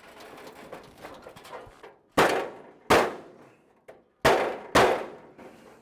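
Four loud metallic bangs from a 1928 Ford Model A's sheet-metal trunk lid while it is being forced by hand to reshape it. Each bang rings out briefly. The bangs come in two pairs, after a couple of seconds of soft handling noise.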